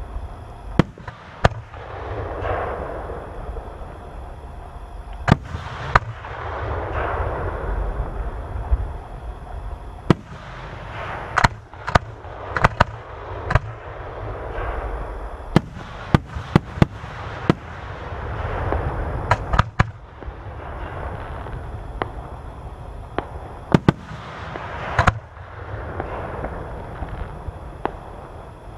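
Aerial fireworks shells bursting: about twenty sharp bangs, irregularly spaced and coming thickest in the middle, over a constant low rumble.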